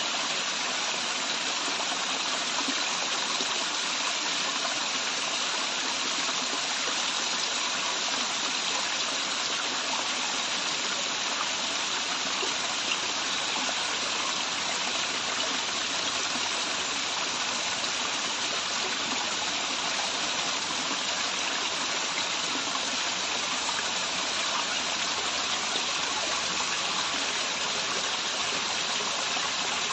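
Waterfall: a steady, even rush of falling and running water, unbroken, with most of its sound in the hissing upper range.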